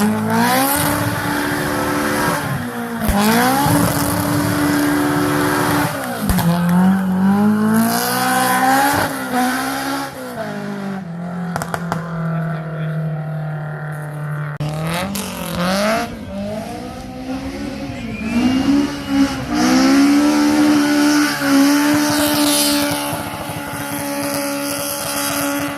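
Honda F20C four-cylinder engine in a Datsun 1200 rally car, revving hard, its note climbing and dropping again and again through gear changes and lifts. It holds a steady lower note for a few seconds midway.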